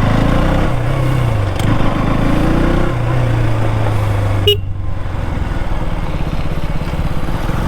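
Motorcycle engine running under way, its pitch rising and falling for the first three seconds and then holding steady, with wind rushing over the microphone. A brief sharp sound cuts in about four and a half seconds in.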